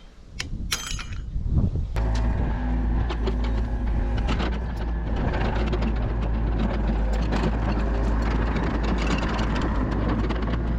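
Two sharp metallic clinks, then from about two seconds in a heavy machine's engine running steadily, with scattered knocks and clatters over it.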